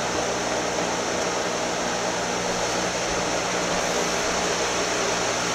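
Steady hiss with a low hum from a running fan.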